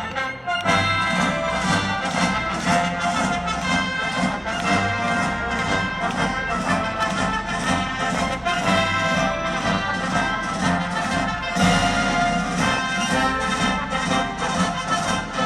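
Orchestra playing with prominent brass (trumpets and trombones) over a steady beat.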